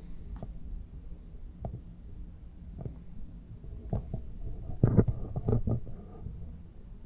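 Low rumble with scattered soft knocks and clicks, and a louder cluster of knocks about five seconds in.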